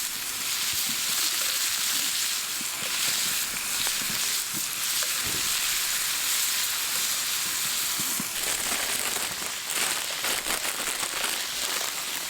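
Food sizzling and spitting in a hot pan, a steady frying hiss with crackles that grow busier in the last few seconds.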